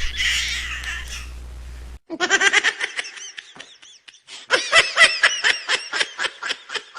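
A baby laughing in runs of quick, high-pitched giggles. About two seconds in, the sound cuts from a hissy, humming recording to a cleaner one with a fast run of laughs.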